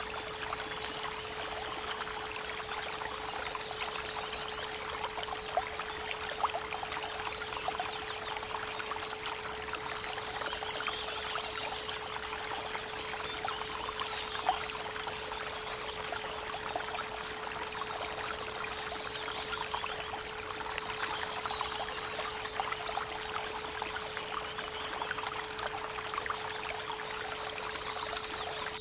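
Creek water running steadily under a continuous 432 Hz pure tone, with short high bird trills a few times.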